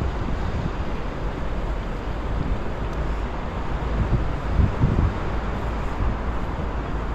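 Wind buffeting the microphone in uneven gusts over a steady outdoor rushing noise.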